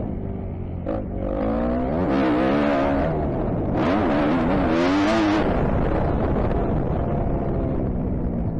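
Kawasaki KX250F four-stroke single-cylinder motocross engine revving up and down as the bike is ridden round a track. It pulls harder and higher about two and four to five seconds in, then settles to a steadier, lower note near the end.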